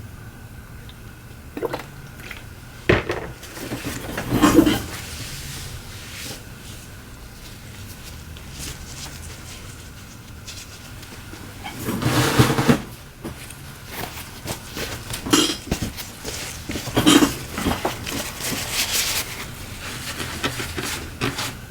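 Irregular clicks, taps and scraping of small hard tools and objects being handled on a workbench, as glass is worked off a phone, over a steady low hum; the scraping is louder in short patches, about four, twelve and seventeen seconds in.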